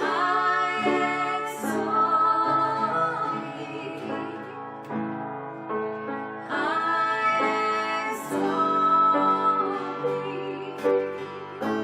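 Worship chorus: a woman singing long held notes in two phrases, the second starting about six and a half seconds in, over guitar accompaniment.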